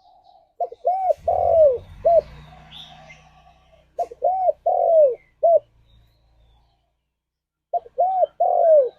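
Spotted dove cooing: three phrases a few seconds apart, each a short note, a rising-falling note, a long falling coo and a short closing note. A faint low rumble sits under the first two phrases.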